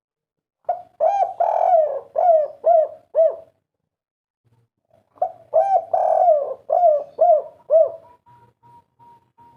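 Spotted dove (tekukur) singing its 'kuk 3' song: two phrases of about six rhythmic coos each, a couple of seconds apart.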